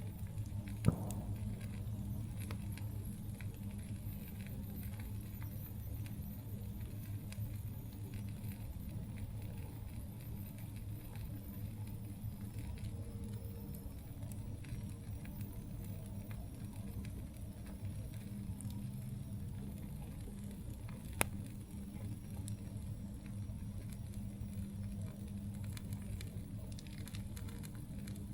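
Campfire burning, with a steady low rumble and scattered faint crackles, and two sharp pops from the burning wood, one about a second in and one about two-thirds of the way through.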